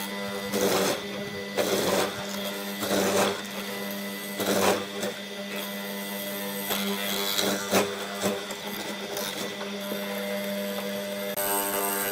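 A woodworking power tool's electric motor running with a steady hum, with several short, loud bursts of noise as it cuts into wood, most of them in the first half.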